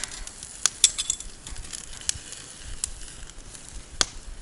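Wood campfire crackling: irregular sharp pops and snaps from the burning firewood, the loudest a little under a second in and another near the end.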